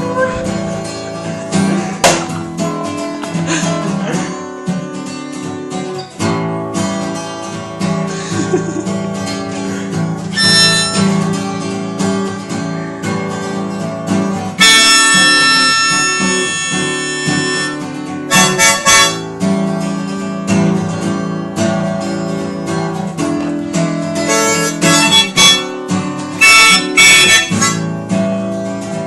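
Blues music played on harmonica and acoustic guitar, with the harmonica swelling into loud held notes about halfway through and again near the end.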